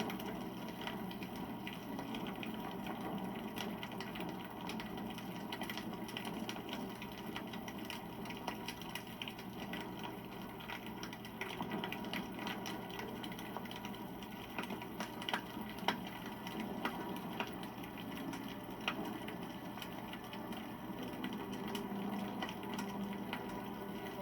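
Wood campfire burning, crackling steadily with many small pops and snaps, one sharper pop about sixteen seconds in.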